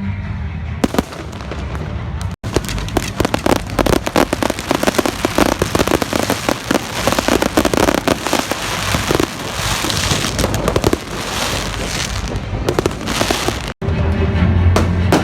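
Fireworks display: a dense, rapid run of bangs and crackles from aerial fireworks going off one on top of another, from a couple of seconds in until near the end. Music plays at the start and again near the end, and the sound cuts out for an instant twice.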